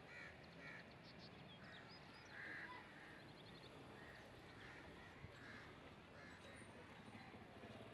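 Faint outdoor background with crows cawing in short calls, repeated on and off.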